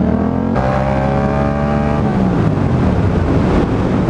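Motorcycle engine revving up, holding high revs for a second or so, then easing off about two seconds in, under steady wind rush on the microphone.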